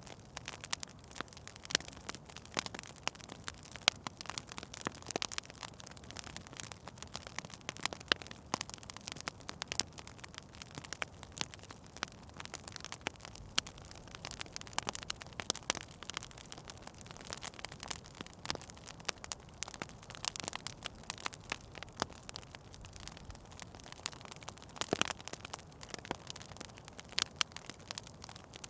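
Indoor fireplace wood fire crackling and popping. Irregular small crackles come over a faint hiss, with a few sharper pops here and there.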